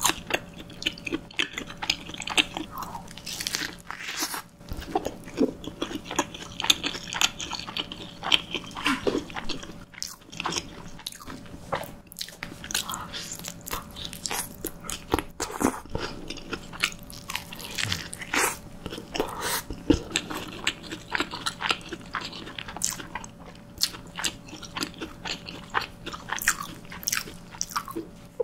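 Close-miked eating sounds: mouthfuls of cream pasta and then bites of a hamburger on a soft dinner-roll bun, chewed with many quick, irregular wet clicks and smacks.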